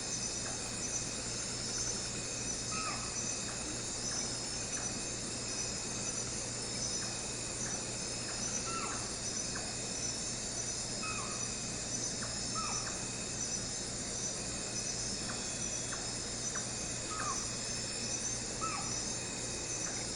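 A steady, high, pulsing chorus of insects such as crickets, with short bird calls that come every second or two.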